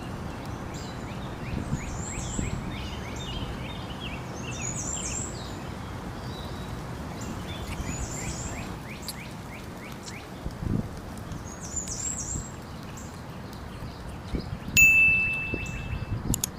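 Small birds chirping over and over against steady outdoor background noise. About fifteen seconds in, a loud, steady high-pitched tone sounds for about a second and a half.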